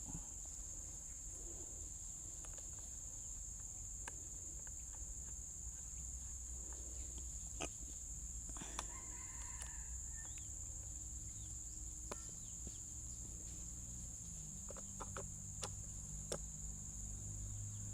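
Steady high-pitched insect chorus, crickets shrilling, with scattered small clicks and taps.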